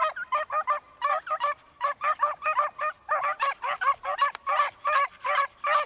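Pack of beagles baying on a rabbit's scent line, a steady, rapid run of short yelping calls, about four or five a second, from several hounds at once.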